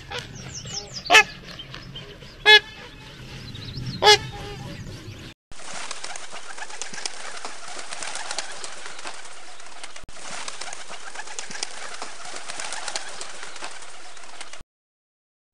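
Swan calling: four loud honking calls, each about a second and a half apart. After a cut, a steady rushing, hiss-like noise runs for about nine seconds.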